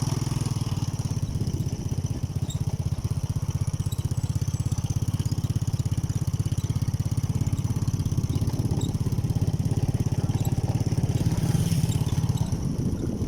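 Motorcycle engine running steadily, its exhaust pulsing evenly.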